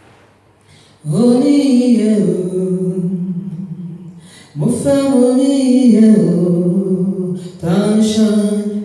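A man singing a hymn unaccompanied, in three sustained phrases with short breaks, the first starting about a second in.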